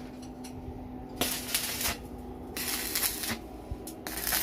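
Welding arc crackling in three short bursts, each under a second, like tack welds being laid.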